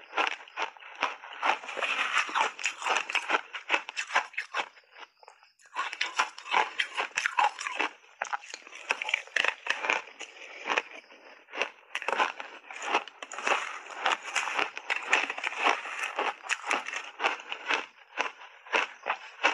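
Shaved ice coated in matcha powder being bitten and chewed: a dense run of crisp crunches and cracks, with a short break about five seconds in.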